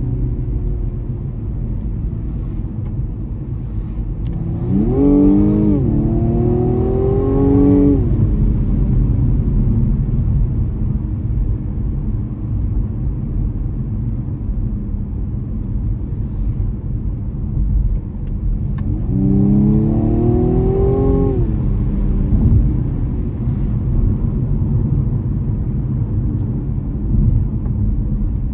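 2021 BMW M135i's turbocharged 2.0-litre four-cylinder engine pulling hard under acceleration. About five seconds in its pitch climbs, drops at an upshift and climbs again before easing off. A second rising pull comes about twenty seconds in, over a steady low engine and road rumble.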